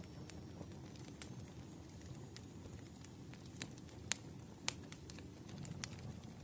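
Wood fire burning: a low steady rumble with irregular sharp crackles and pops from the burning logs, the sharpest two about four and a half seconds in.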